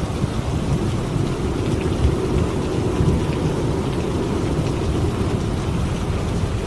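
Steady rain falling, with a continuous low rumble of distant thunder underneath.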